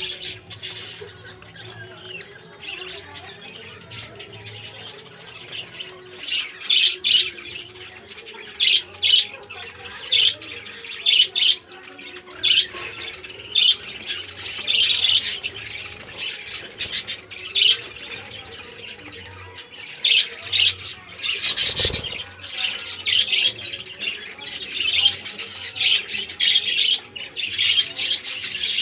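Pet lovebirds chirping and squawking in quick, repeated shrill calls, with one sharp knock about two-thirds of the way through.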